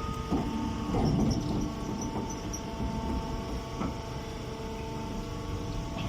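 Straw baler's hydraulic power pack running: a steady machine hum made of several tones over a low rumble, with a couple of louder rattles about half a second and a second in.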